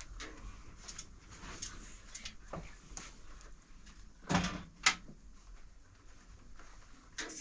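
Scattered light knocks and clicks of objects being handled, with two sharper knocks about four and a half seconds in.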